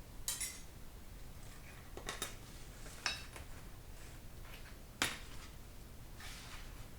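Metal clutch plates from a 4L60E transmission clinking and knocking together as they are handled, a few separate clinks with the sharpest one about five seconds in.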